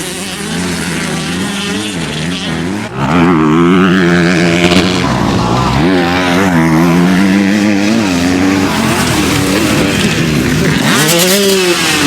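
Motocross bikes racing on the track, their engines revving up and down as the riders work the throttle and gears. The sound gets much louder about three seconds in as the bikes come close.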